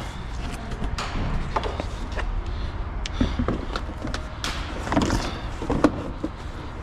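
Scattered clicks, taps and knocks of car body parts being handled during reassembly, over a steady low shop hum.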